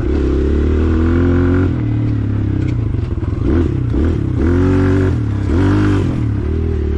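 Small dirt bike engine revving up and down with the throttle, its pitch rising and dropping several times.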